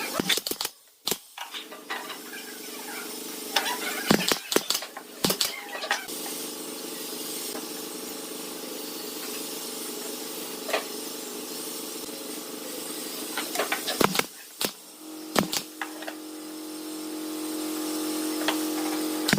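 A machine motor running with a steady hum, broken by clusters of sharp knocks and clicks. The hum changes and grows louder near the end.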